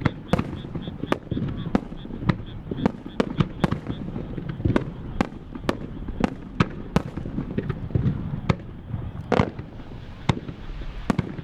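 Starmine fireworks barrage: shells bursting in quick, irregular succession, about two or three sharp bangs a second over a continuous low rumble.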